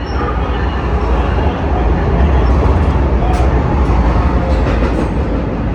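A train running past on the tracks: a loud, steady rumble that swells slightly in the middle, with a few faint clicks.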